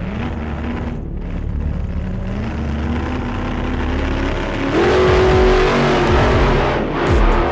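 Engine revving, its pitch climbing slowly and then jumping higher about five seconds in, where it holds and grows louder.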